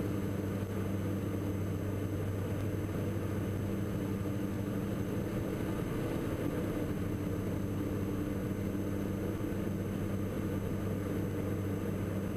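Steady drone of a Diamond DA42 NG's two diesel engines and propellers in cruise power, heard inside the cockpit, with an even low hum that does not change.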